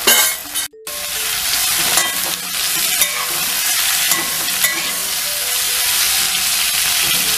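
Sliced onions, green chillies and curry leaves frying in hot coconut oil in a metal kadai: a steady sizzle, with a spatula stirring and scraping against the pan now and then. The sound drops out briefly under a second in.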